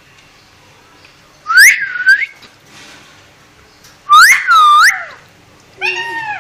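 Pet parrot whistling: two loud swooping whistles that rise then dip, the second longer, followed near the end by a lower call with a talking-like tone.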